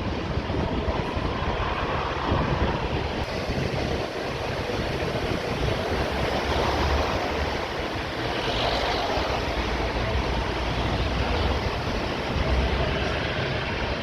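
Jet airliner engines running at taxi power: a steady rumble and hiss, with wind gusting on the microphone.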